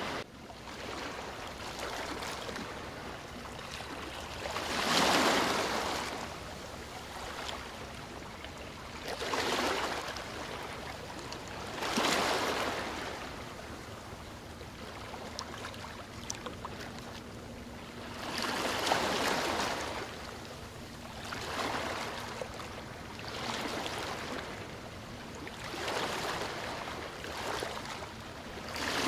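Sea waves washing in, a steady rush of surf with a louder swell of breaking water every few seconds, each rising and fading over a second or two.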